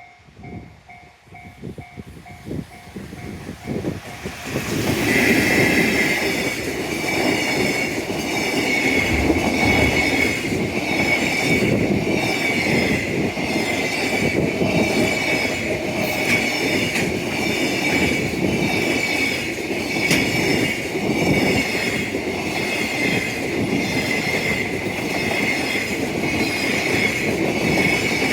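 Long freight train passing close by, faint at first and loud from about four seconds in. The wagons' wheels clack over the rail joints in a steady rhythm for over twenty seconds, with a high steady whine running under it.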